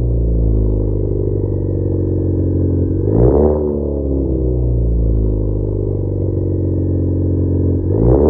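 Ford Focus ST's turbocharged four-cylinder running through an AWE Track catback exhaust, a steady low exhaust note with a sudden shift in engine pitch about three seconds in and again near the end.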